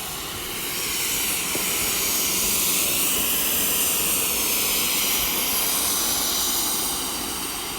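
Steam locomotive going by, a steady rushing hiss that swells about a second in and eases off near the end.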